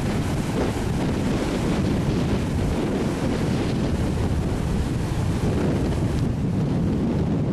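Strong wind buffeting the microphone in a steady low rumble, over the wash of storm-surge waves.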